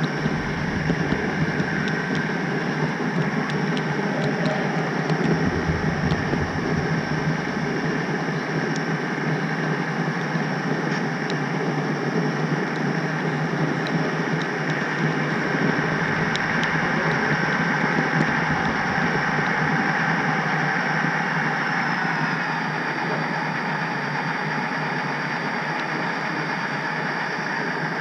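HO scale model train running on the track: a steady rolling rattle of small wheels on the rails with a thin, high motor whine and scattered faint ticks.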